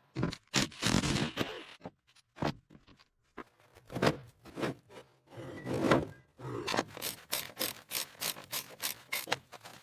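Rough scraping strokes on rusty metal: irregular at first, then quick, even strokes about three a second through the second half.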